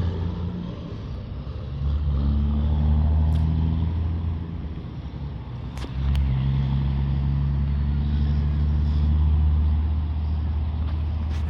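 Low, steady engine drone of an approaching aircraft, dipping and swelling twice and coming back strongly about six seconds in.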